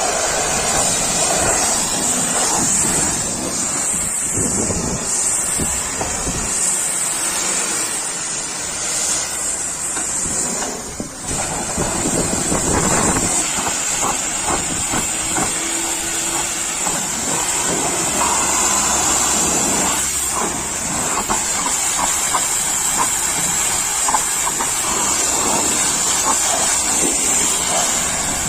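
High-pressure washer spray hissing steadily, with a strong high-pitched hiss that drops briefly about eleven seconds in.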